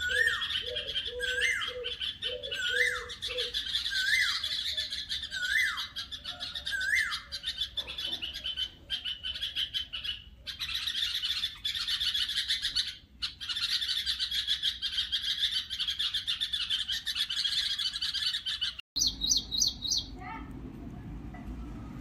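Birds chirping and calling: a repeated rising-then-falling call sounds over and over for the first several seconds above a dense, high twittering chorus. Near the end it cuts abruptly to a different, higher, rapid chirping.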